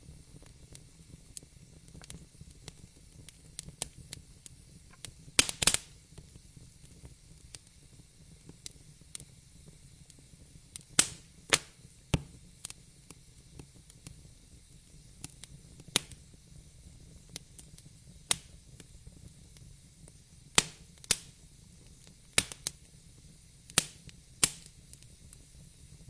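Wood fire burning in a fireplace: a low steady rumble with scattered sharp crackles and louder pops, a cluster about five and a half seconds in, pairs of pops around eleven and twenty-one seconds, and two more near the end.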